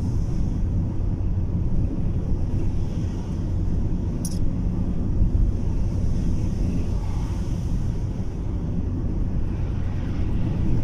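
Steady low rumble of a car driving, heard from inside the cabin in strong wind. A single short sharp tick sounds about four seconds in.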